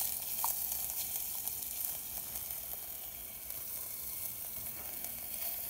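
Sausage frying in olive oil in a small camping pot on a gas stove, sizzling steadily with small crackles; the flame is high enough that the middle of the pot is scorching.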